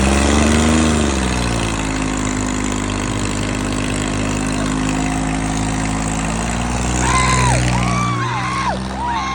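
Car engine revving up briefly about a second in, then running steadily. Near the end, several short shrill sounds sweep up and down in pitch over it.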